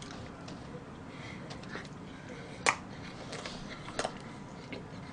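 Close-miked chewing of a moist chocolate cake: soft wet mouth sounds with a few sharp clicks, the loudest about two and a half seconds in.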